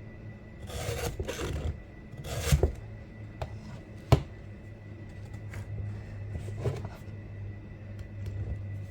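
Hand file rasping across a chainsaw chain's cutter in a two-in-one file guide: a couple of strokes early on, a sharp click about four seconds in, then a lighter stroke, over a steady low hum.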